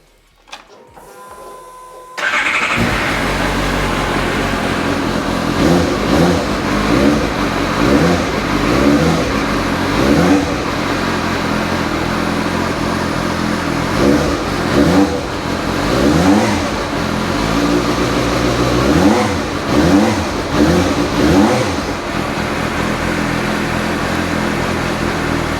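2014 Suzuki GSR 750's inline-four engine starting about two seconds in, after a faint steady whine, then running on the standard exhaust with repeated blips of the throttle, the revs rising and falling.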